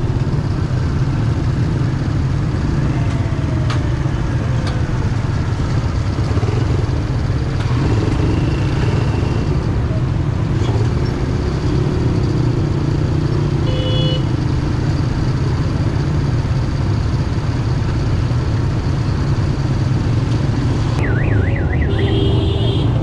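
Yamaha YBR 125G's single-cylinder four-stroke engine running steadily under heavy wind rumble on the rider's chest-mounted camera, in city traffic. A short horn beep sounds about 14 s in, and near the end a warbling, rising-and-falling horn or alarm tone joins in.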